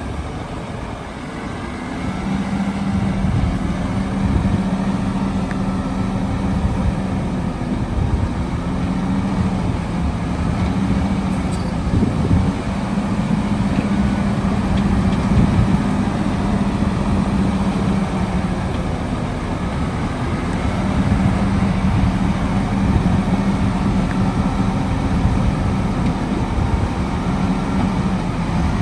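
Heavy diesel engine of earthmoving machinery running steadily with a constant drone. It grows louder about two seconds in and then holds, swelling slightly now and then.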